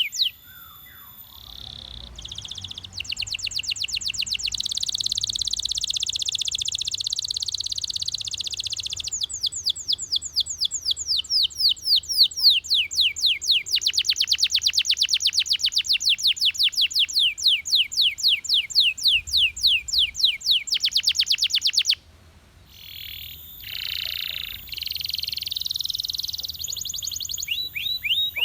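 Belgian canary singing a long song made of fast trills: a buzzy warble, then long rolls of rapid repeated falling notes, with a short break about three quarters of the way through before the song picks up again.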